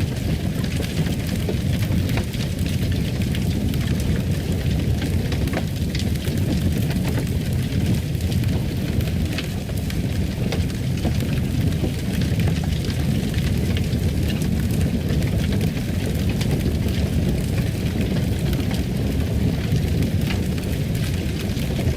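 Wood fire crackling in a fireplace: a steady low rumble of flames with frequent small, irregular pops and crackles.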